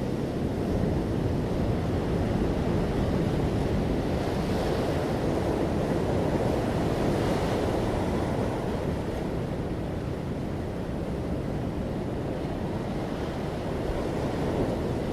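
Ocean waves breaking on the shore, a steady rushing wash with two gentle swells of brighter hiss as waves break, about a third and half-way through.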